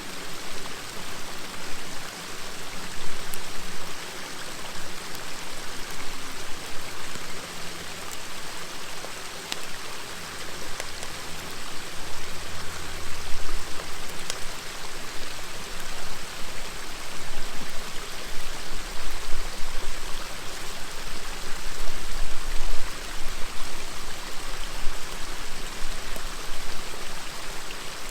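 River water flowing steadily, with a few faint pops from a crackling campfire.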